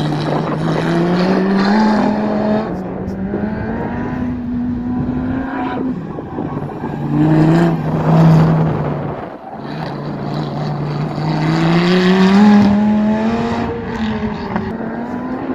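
Car engine accelerating hard, its pitch climbing and then dropping back several times, with two brief lulls partway through, like cars driving past on a race track.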